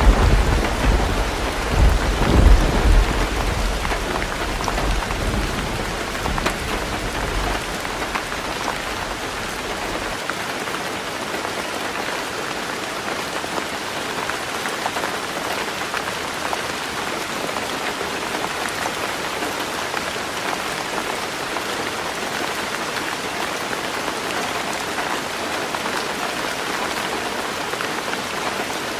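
Heavy rain falling on a roof, a steady dense patter, with a low rumble of thunder in the first few seconds that fades out by about ten seconds in.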